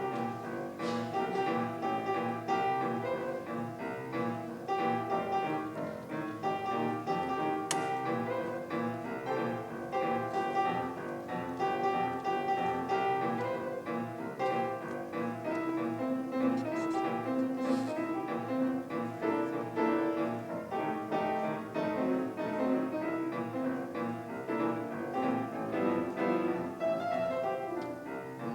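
Classical-style piano music, a continuous run of many notes.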